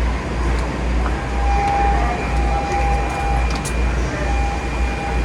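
Keikyu 2100-series train standing: a steady low electrical hum under an even hiss, with a steady tone starting about a second in, breaking off past the middle and returning near the end.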